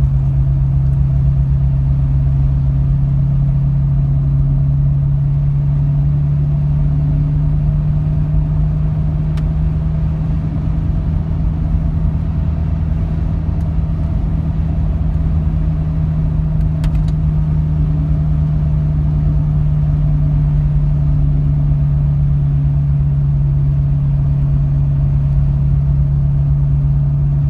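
1998 Jeep Cherokee's 4.0 inline-six engine and exhaust, a Banks Torque Tube header into a Flowmaster Super 10 muffler, heard from inside the cab, running at a steady, unchanging pitch. A couple of faint clicks sound about a third and two thirds of the way through.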